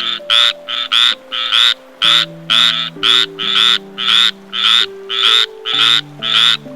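A frog croaking over and over in a quick, even series, about two croaks a second, over soft background music.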